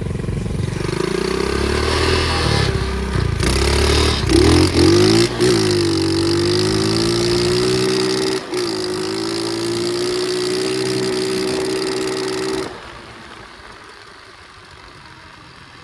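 Flywing pit bike engine running while ridden, its pitch rising and falling in the first few seconds, then holding a steady note. The engine sound cuts off abruptly about thirteen seconds in, leaving a much quieter background.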